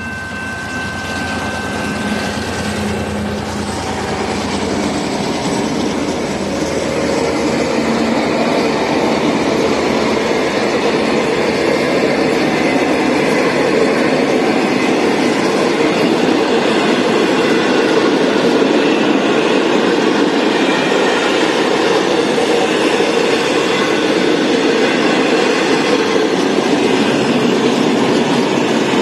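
A diesel-hauled passenger train running past on the rails, its wheels clattering over the track. The sound grows louder over the first ten seconds or so and then stays loud and steady. A few steady high tones fade out in the first seconds.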